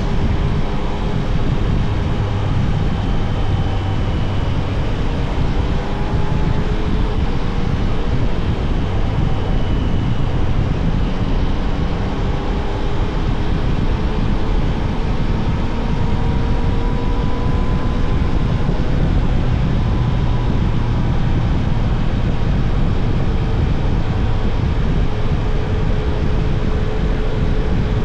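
Yamaha Tracer 900 GT's three-cylinder engine running under way, its note rising slowly several times, over a steady rushing noise.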